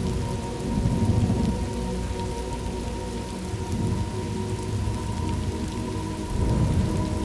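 Thunderstorm ambience: steady rain falling, with rolling thunder rumbling low underneath that swells about a second in and again near the end.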